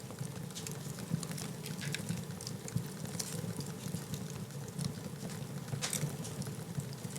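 Wood fire in a fireplace crackling, with irregular sharp pops and snaps over a steady low rumble of the flames. One louder crack comes about six seconds in.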